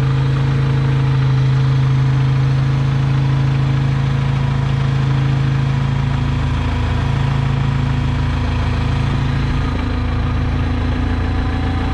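New Holland LX565 skid steer's four-cylinder diesel engine running steadily just after a cold start. It fired without ether once its new glow plugs were heated. The engine's pitch settles a little lower about halfway through.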